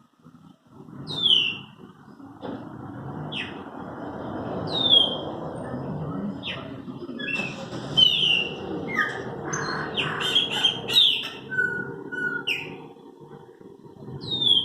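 Chopi blackbirds (pássaro-preto) singing: a run of loud, clear whistled notes that sweep downward, mixed with sharp chirps and a busier burst of notes in the middle, over a steady low background noise.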